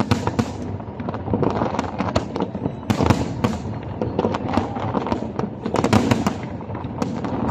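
Aerial fireworks display: a continuous barrage of shell bursts and crackle, many bangs a second overlapping, the loudest about three and six seconds in.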